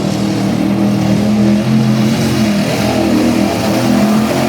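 Mud bog truck engine running loud and revving, its pitch rising and falling, easing off in the middle and pulling hard again near the end.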